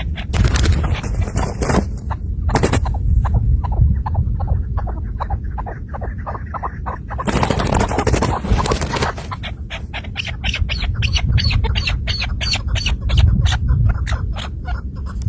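Chukar partridge calling: rapid runs of short, repeated chucking notes, about four to five a second, broken by two louder, rougher bursts near the start and about halfway through, over a steady low rumble.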